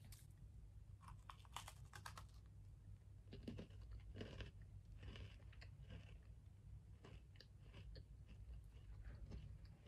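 Faint crunching and chewing of a dry Oreo sandwich cookie, a run of small irregular crisp crunches.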